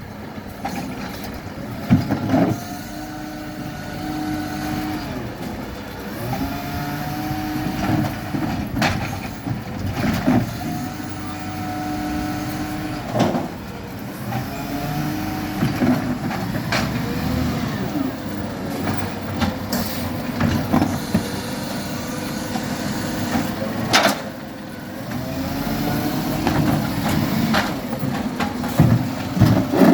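Garbage truck collecting green-waste bins: the engine revs up and down over and over, every few seconds, with a rising and falling whine, as the bin-lifting arm works. Several sharp bangs break in, among them one at about 2 seconds, one at about 13 and one at about 24.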